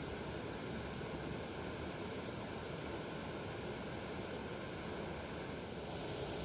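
Steady rushing of a flowing river, an even hiss without breaks or distinct splashes.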